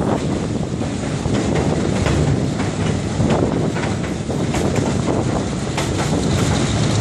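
Moving passenger train heard from an open car: a steady rumble of wheels on the rails with occasional sharp clicks, and wind buffeting the microphone.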